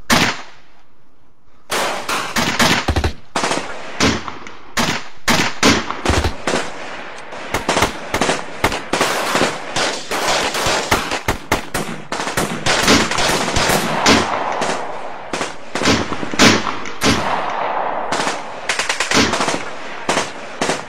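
Rapid gunfire: a dense, continuous stream of rifle and machine-gun shots, starting about two seconds in.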